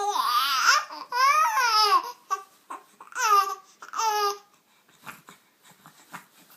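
Baby vocalizing: four high-pitched, drawn-out calls that rise and fall in pitch, then only faint small sounds in the last two seconds.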